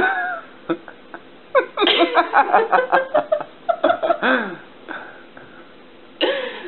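A sudden sneeze-like burst at the start, then a person laughing in quick repeated bursts for a few seconds, ending on a falling tone.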